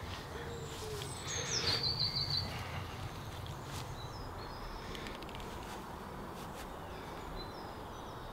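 A songbird singing: a short phrase of a falling note followed by a quick run of repeated high notes, about a second in, with fainter high chirps later, over a steady low outdoor background rumble.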